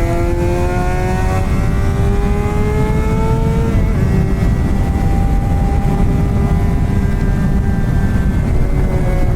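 Straight-piped Suzuki GSX-R600 (K7) inline-four, no catalytic converter, pulling hard with its note climbing steadily for about four seconds, an upshift that drops the pitch, then holding a fairly steady note. Heavy wind rumble on the microphone lies under it.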